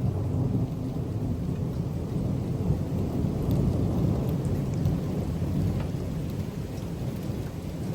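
Rolling thunder rumbling steadily after a close lightning strike, easing slightly near the end, with rain falling and pattering.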